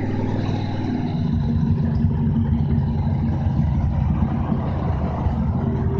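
Chevrolet Malibu's engine heard from inside the cabin while the car is driven. About a second in, its note changes and grows slightly louder as it pulls harder.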